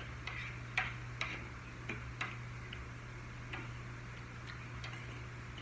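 Eating sounds at the table: scattered soft clicks and taps, irregular and a few per second, over a steady low hum.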